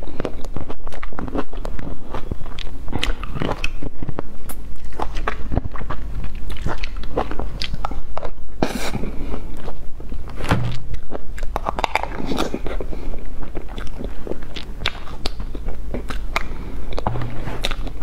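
Chewing and lip smacking, with many quick wet mouth clicks, as a person eats soft cream cake. A steady low hum runs underneath.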